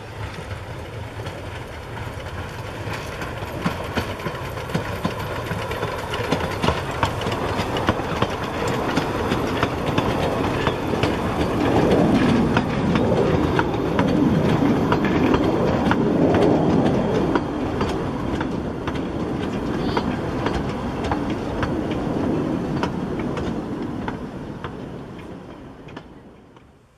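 Narrow-gauge passenger train running past close by, its wheels clicking over the rail joints. It grows louder as the carriages pass, is loudest in the middle, and fades out near the end.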